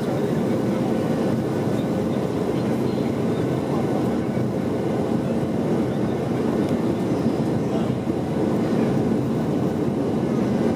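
Steady drone of a WestJet Boeing 737-600's jet engines and airflow heard inside the passenger cabin in flight, even in level throughout with a faint steady hum running through it.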